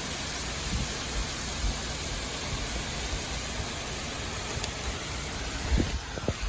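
Heavy rain pouring down steadily in a constant hiss, with a few short low thumps about six seconds in.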